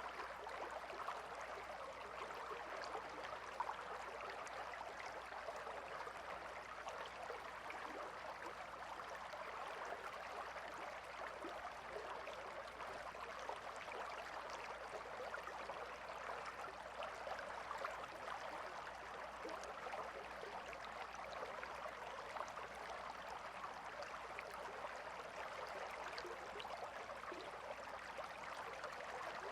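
A calm river flowing: a steady, gentle rush and babble of water with fine small splashes throughout.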